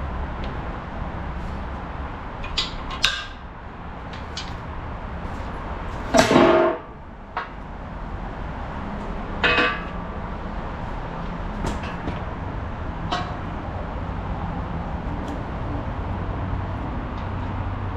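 A skid steer's engine running steadily, with a few sharp metal clanks, the loudest about six seconds in.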